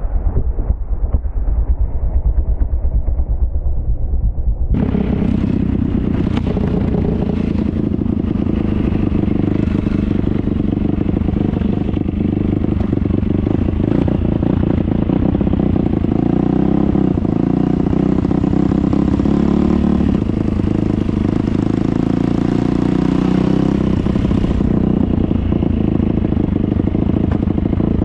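Dirt bike engine running steadily under way, a loud low drone with rattle.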